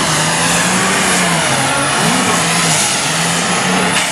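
Light Super Stock pulling tractor's engine running flat out under load as it drags the weight-transfer sled down the track. The engine pitch wavers, and a steady high whine over it cuts off near the end.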